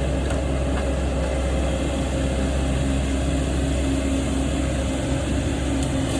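An engine running steadily at a constant speed, a low drone with a steady hum.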